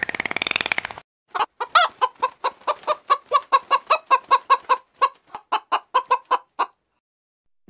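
A rapid train of dolphin clicks with whistles ends about a second in. After a short gap, a chicken clucks in a steady series of about four clucks a second for some five seconds, then stops.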